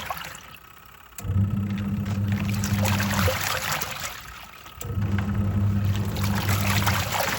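Twin-tub washing machine washing: the pulsator motor hums for about two seconds at a time with short pauses between, while water and clothes slosh in the wash tub.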